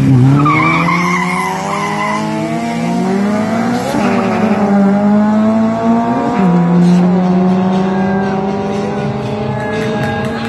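Honda Civic drag car launching off the line with a brief tyre squeal, then accelerating hard down the strip. The engine pitch climbs in each gear and drops at two gear changes, about four and six and a half seconds in.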